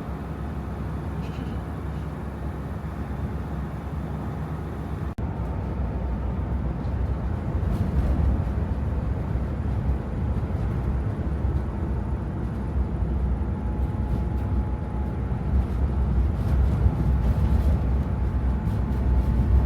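Steady low rumble of a vehicle on the move. A sudden break about five seconds in is followed by a louder stretch.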